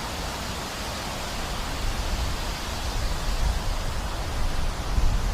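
Rain falling steadily, a dense, even hiss, with a low uneven rumble underneath.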